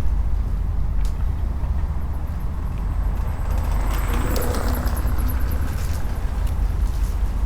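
Harbour ambience: a steady low rumble of distant boat engines, with a short creaking of mooring ropes and a few sharp clicks about four seconds in.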